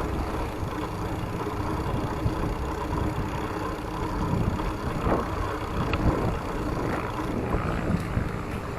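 Steady low wind rumble on the microphone of a camera carried on a moving bicycle, with a faint hum underneath and a few light ticks.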